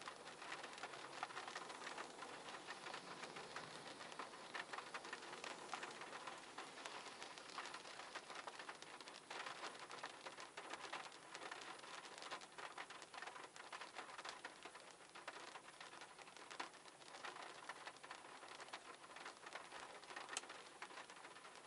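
Faint, steady pattering: a dense run of many small ticks over a soft hiss, much as rain on a surface sounds.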